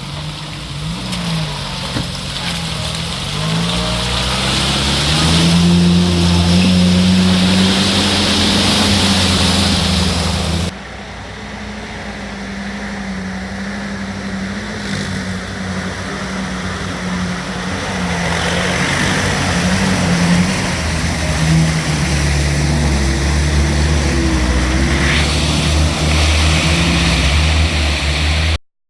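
Off-road 4x4's engine running under load, its pitch rising and falling as it is revved through rough going. The sound drops off abruptly about a third of the way in and carries on at a lower level.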